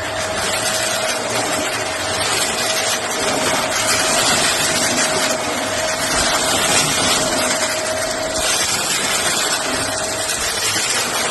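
Shark vacuum cleaner running, a loud, even rush of air with a steady motor whine that fades out about eight and a half seconds in.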